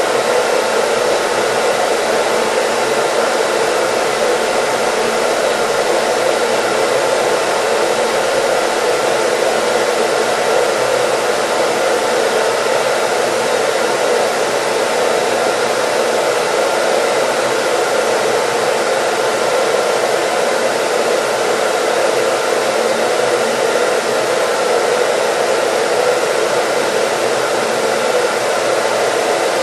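Hair dryer running steadily, an even airy rush with a faint motor hum and no change in speed.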